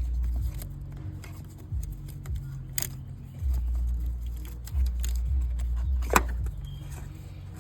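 Light metallic clinks and rattles of tools and parts being handled while an oil filter is refitted, with a sharp click about six seconds in, over an uneven low rumble.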